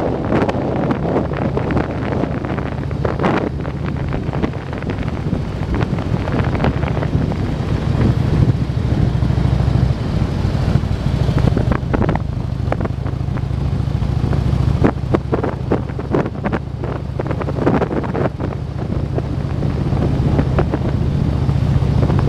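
Motorcycle engine running at a steady note, with wind buffeting the microphone.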